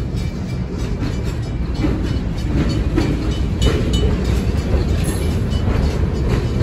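Diesel-hauled freight train reversing slowly while switching: a steady low locomotive rumble with irregular clicks and knocks from the wheels and cars, and a few brief high squeals about three and a half to four seconds in.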